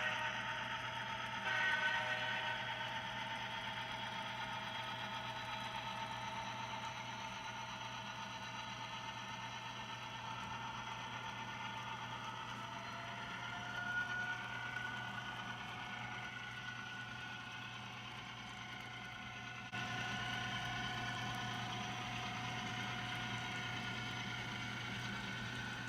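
Model train locomotive running on a layout: a steady motor hum with higher whining tones that slowly shift in pitch, stepping up suddenly in level about two-thirds of the way through.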